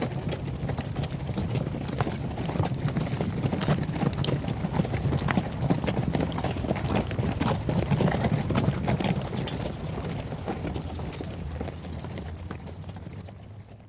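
Horse hoofbeats, a dense, continuous run of clip-clopping hoof strikes over a low rumble, fading away over the last few seconds.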